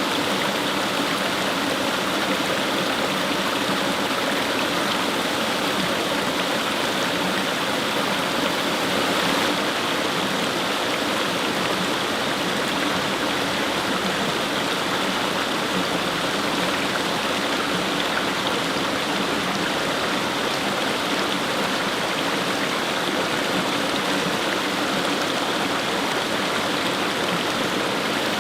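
Fast-flowing stream: a steady, even rush of water running over stones.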